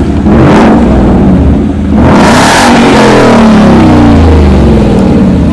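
Ford Mustang 5.0-litre V8 revved hard twice, loud: a short blip about half a second in, then a bigger rev around two seconds in. The revs then sink back down toward idle.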